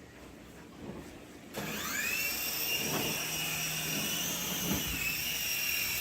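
Sky Rover Vigilante toy helicopter's electric rotor motors spinning up about a second and a half in, with a quickly rising whine that settles into a steady high-pitched whine.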